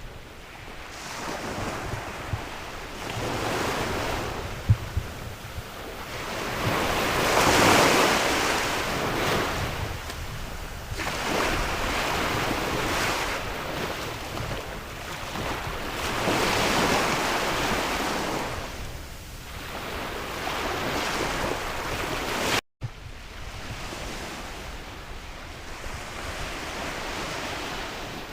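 Sea waves breaking and washing in, swelling and fading about every four to five seconds, with wind buffeting the microphone. The sound cuts out for an instant about two-thirds of the way through.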